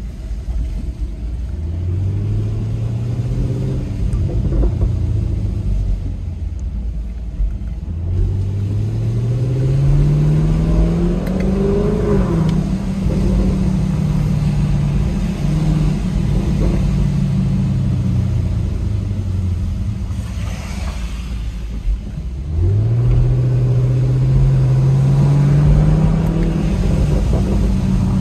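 Chevrolet Camaro SS's 6.2-litre V8 accelerating and easing off during a drive. Its note rises three times, about a second in, about eight seconds in and, more suddenly, near twenty-two seconds in, holding between the climbs and dropping back after them.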